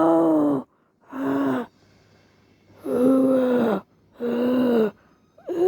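Deer calling repeatedly: about five short, pitched calls, each under a second long, with brief pauses between them. Some calls sit a little lower in pitch than others, as if two deer are answering each other.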